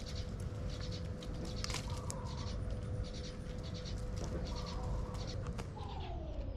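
Birds calling and chirping repeatedly in short clusters, over a steady hum that drops in pitch near the end.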